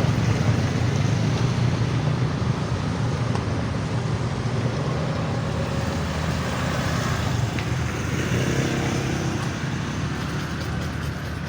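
Steady low rumble of a passing heavy vehicle, slowly fading.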